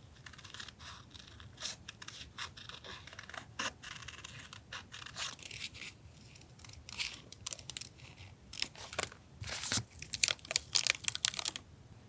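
Paper being handled for a journal collage: a run of short, crisp, scratchy paper rustles and scrapes, growing denser and louder near the end.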